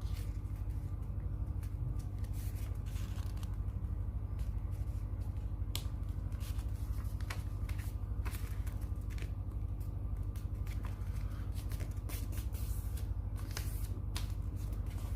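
A sheet of paper being handled and folded, with repeated short crackles and rustles as it is creased, over a steady low hum.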